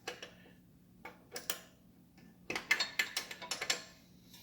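Ratchet wrench clicking in short strokes while tightening the motorcycle's exhaust mounting nuts, with metal tool clinks. There are a few separate clicks, then a quick run of clicks about two and a half seconds in.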